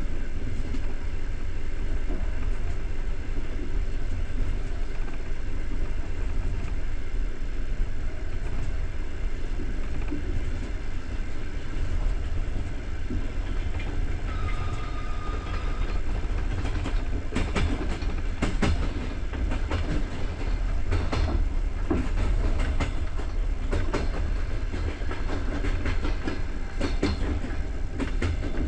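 Passenger train coach rolling along with a steady low rumble. From about two-thirds in, the wheels clack irregularly over rail joints or switches. A brief high tone sounds about halfway through.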